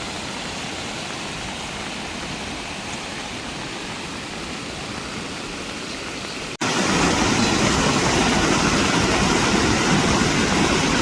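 Steady rushing of water in heavy rainy-season conditions, an even hiss with no distinct events. About six and a half seconds in, it cuts suddenly to a louder stretch of the same rushing noise.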